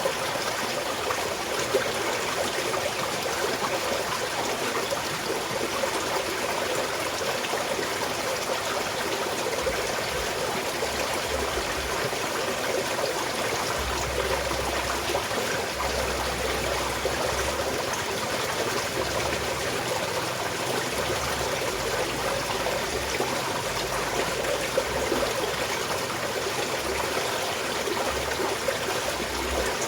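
Small mountain stream flowing steadily over rocks, a continuous burbling rush of water. A faint low rumble comes and goes under it in the second half.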